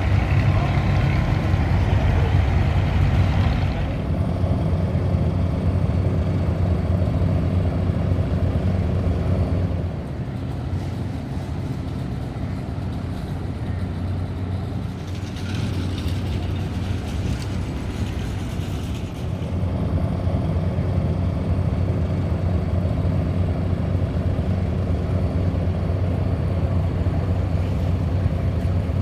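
Ferry's engines running with a steady low drone and a hiss of water and wind, easing off for several seconds in the middle before coming back up.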